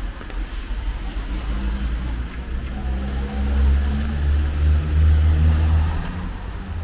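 A car driving past on a wet street: its engine hum builds, is loudest about four to five seconds in, then fades, over a steady hiss.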